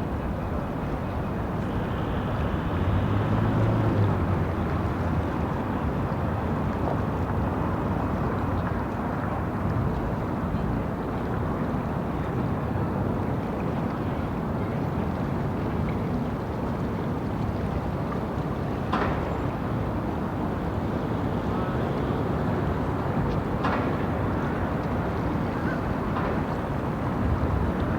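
City street ambience: a steady wash of traffic noise, with a low engine hum a few seconds in and a few brief sharp clicks in the second half.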